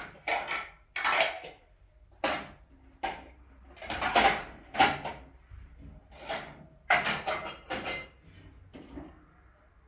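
Irregular scraping and clattering of objects being handled, in about a dozen short bursts of uneven length.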